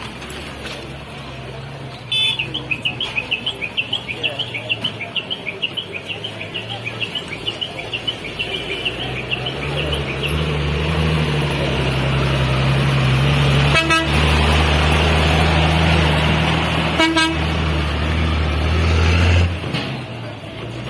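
Shaktiman truck horn tooting in quick repeated blasts, about four a second, for around eight seconds. Then the truck's engine runs louder and louder before dropping back near the end.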